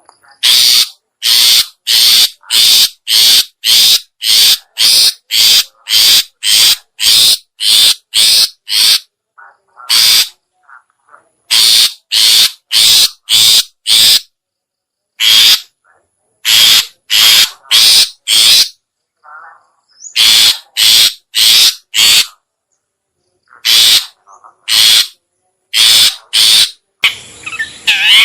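Long-tailed shrike (cendet) giving its loud, harsh 'toet toet' call: short notes about two a second in runs, broken by pauses of a second or two. It is a recorded call played as a lure for trapping this bird.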